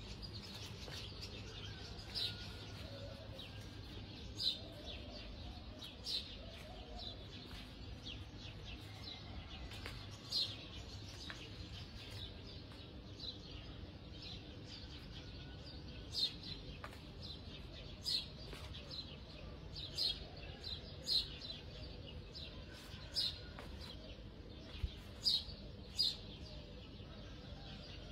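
Small bird chirping: short high chirps at irregular intervals, more frequent in the second half, over a low steady hum.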